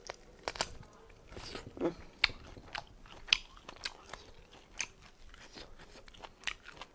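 Close-miked eating: a person biting and chewing meat, with irregular sharp clicks and crunches.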